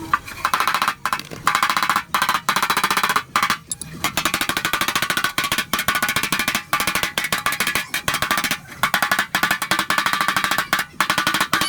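A power tool working car-body sheet metal, chattering with very rapid, even strikes in bursts of one to two seconds separated by brief pauses.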